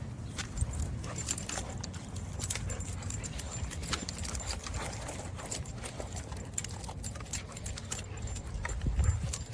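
Irregular footsteps and a dog's claws tapping on pavement during a walk, with light metal jingling, over a low rumble on the microphone.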